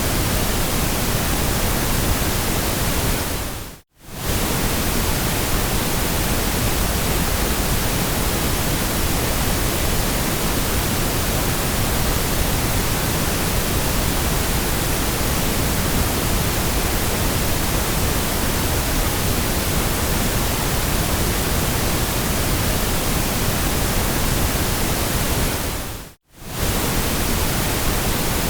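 Steady, even hiss of white noise across bass and treble alike. It briefly fades out to silence and straight back in twice, about four seconds in and near the end.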